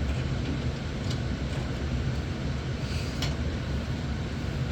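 Steady low hum of background machinery, with a couple of faint short clicks about one and three seconds in.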